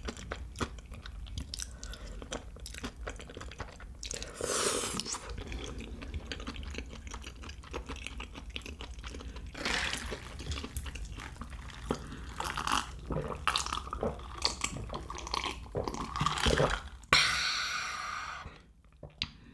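Close-miked eating sounds: noodles slurped and chewed with many small wet clicks, then gulps from a glass of cola near the end.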